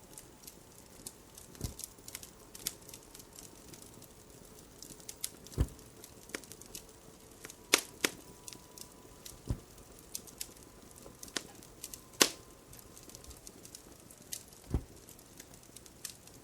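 Wood fire crackling in a fireplace: irregular sharp pops and snaps, a handful of them louder with a low thud.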